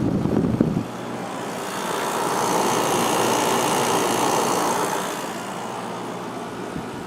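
1994 White Westinghouse 5200 BTU window air conditioner running: the A.O. Smith fan motor blowing air with a steady rush over the Goldstar compressor's low hum. There is a low rumble in the first second, and the air rush swells in the middle and eases off again.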